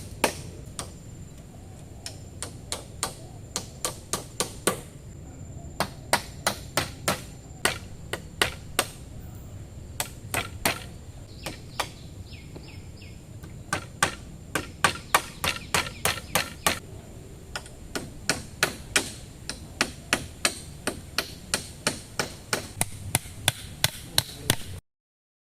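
Repeated chopping strikes, a blade hitting wood, about three a second. They come in runs broken by short pauses, over a steady low rumble, and cut off abruptly near the end.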